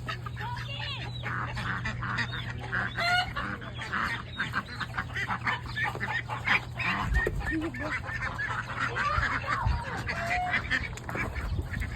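A flock of penned ducks and other poultry calling over one another in many short, overlapping calls, over a steady low hum.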